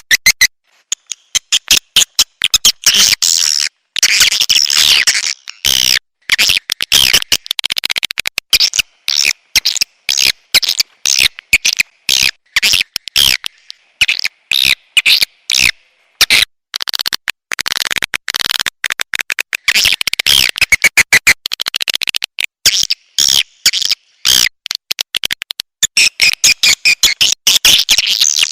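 Recorded swiftlet calls used as a lure sound: rapid trains of sharp clicks mixed with bursts of high chirping twitter, with a few brief pauses.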